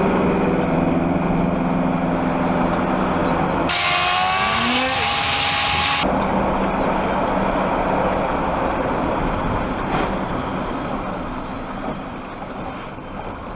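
Lorry engine droning steadily, heard inside the cab. A few seconds in, a brighter, different sound with shifting tones breaks in for about two seconds. The engine drone eases off near the end.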